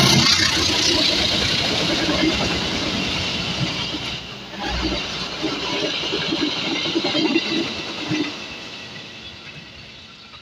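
A train running past on the rails, its noise fading steadily over the last few seconds as it moves away.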